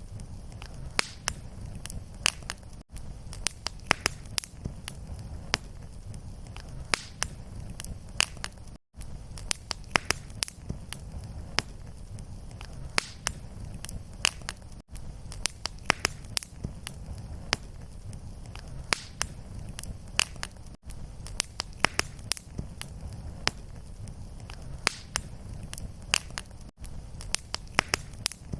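Crackling wood fire: a steady low rumble with frequent sharp, irregular pops and crackles. The sound drops out for an instant about every six seconds.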